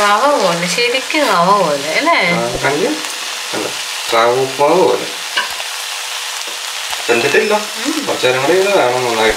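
Fish roe thoran frying dry in a nonstick pan with a steady sizzle, a wooden spatula stirring and scraping through it. A loud, wavering, voice-like pitched sound comes and goes over it three times: through the first three seconds, again around four to five seconds in, and in the last two seconds.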